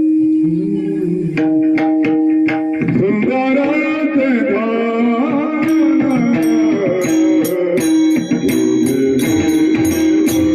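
Varkari kirtan music: a male singer holds long, gliding melismatic phrases over a steady drone. Hand cymbals begin keeping an even beat about halfway through.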